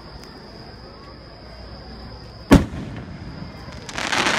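Aerial firework shell going off with a single sharp boom about two and a half seconds in, followed near the end by a loud hissing crackle as a burst's glittering stars spread.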